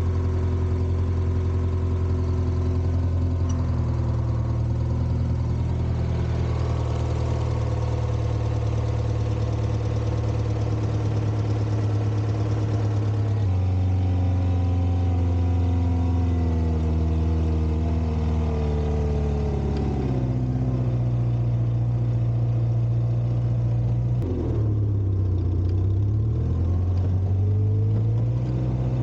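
Volvo four-cylinder gasoline engine of a 1960s Kalmar baggage tractor running steadily, its speed changing several times: it rises about four seconds in, drops back about halfway through, then sags and dips sharply near the end before climbing again.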